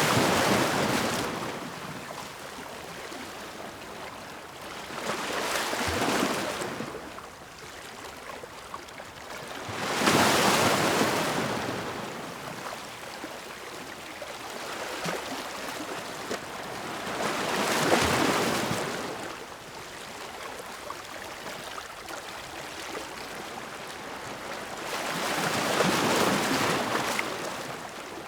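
Ocean waves breaking on the shore in a slow rhythm, each wash of surf swelling and fading, with one every seven or eight seconds.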